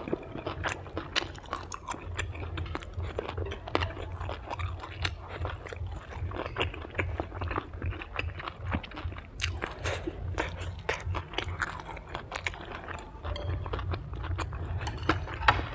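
Close-up chewing of deep-fried, breaded kimbap: irregular crunches and wet mouth clicks, over a low steady hum.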